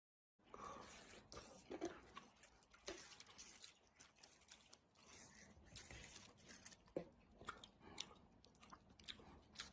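Faint, irregular crunching and clicking, with a few sharper clicks scattered through it.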